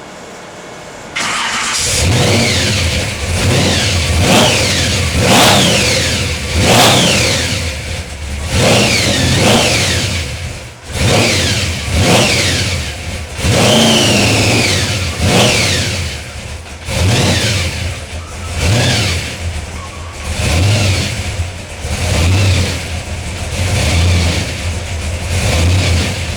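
Supercharged big-block Chevy V8 starting up about a second in, then blipped over and over, roughly every one and a half to two seconds. After each rev the supercharger's high whine falls away. The engine drops off near the end.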